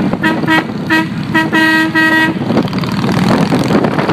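A vehicle horn honking in a rapid series of short toots, then stopping about two seconds in, leaving the rumble of motorcycle engines.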